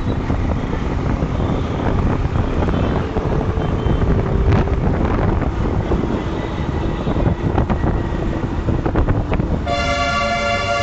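Motorcycle riding in city traffic: steady engine, wind and road noise. About ten seconds in, a vehicle horn blares loudly for about a second.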